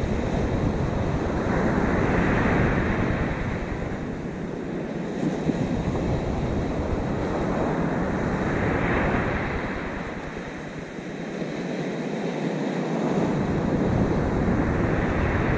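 Rough sea surf breaking on the shore, the wash swelling about every six or seven seconds, with wind buffeting the microphone.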